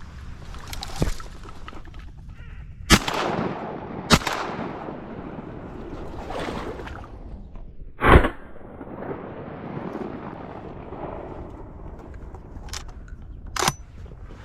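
Shotgun shots at a drake mallard: two about a second apart, then a louder third about four seconds later, the cleanup shot on the downed bird, each ringing out over open water. A fainter sharp report comes near the end.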